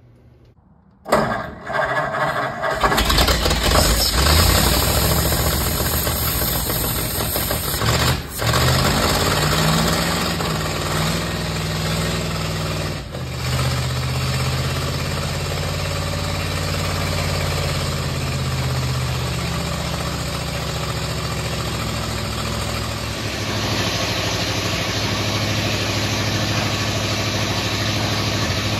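1950 Ford F1's flathead V8 starting about a second in and running loud with no muffler or exhaust fitted, its speed rising and falling for a while before it settles into a steadier idle.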